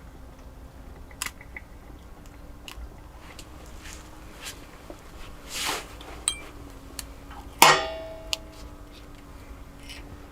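Camp cooking gear being handled: scattered light clicks and knocks, a brief rustle just before six seconds in, and one sharp clink about seven and a half seconds in that rings briefly, over a faint steady hum.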